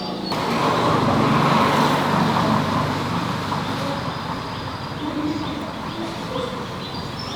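A motor vehicle's engine running with a low hum; it grows louder about a second in and then eases off a little.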